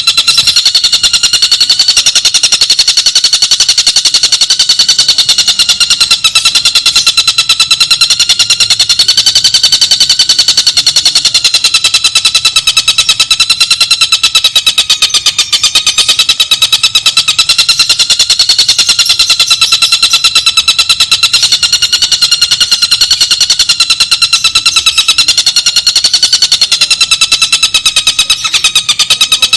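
Bird call as a rapid, unbroken trill of many notes a second, its pitch wavering slowly up and down.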